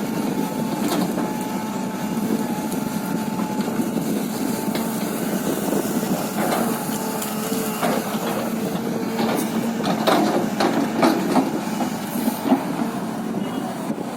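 Excavator engine running steadily with a whining tone that drops in pitch about halfway, while the tree's wood cracks and splinters under the machine. A cluster of sharp cracks comes about ten to twelve seconds in.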